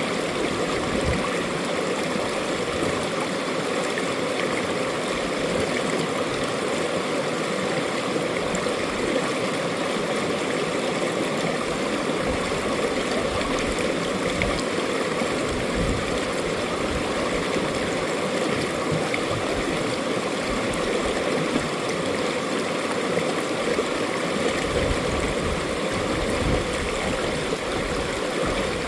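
Mountain valley stream: water running and gurgling over rocks in a steady, unbroken rush.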